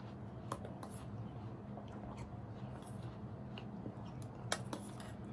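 Quiet eating sounds: oats being chewed, with a few small clicks of a spoon against the bowl, over a low steady hum.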